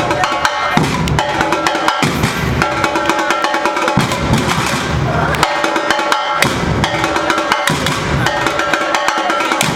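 Bateria, a Brazilian samba percussion ensemble, playing a steady, loud, driving rhythm on bass drums, snare drums and higher hand percussion, with the deep bass drums dropping out for moments now and then.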